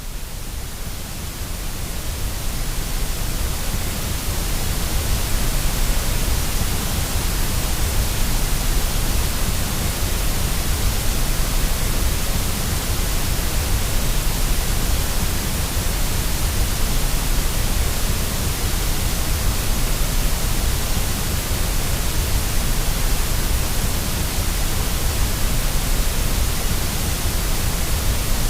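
Steady white-noise hiss for baby sleep, with a low rumble under it. It fades in over the first few seconds, then holds even.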